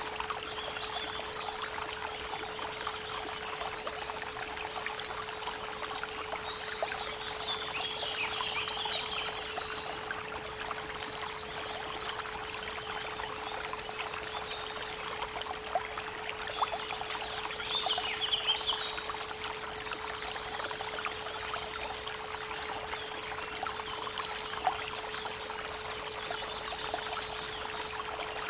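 Creek water running steadily, with a continuous 432 Hz pure tone humming underneath. Birds sing short phrases a few times, about a quarter of the way in, just past the middle, and again near the end.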